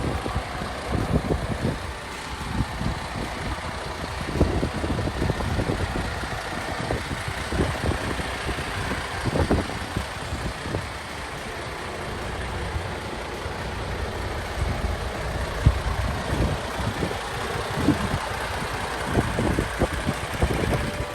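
MAN TGX 26440 tractor unit's diesel engine running at idle.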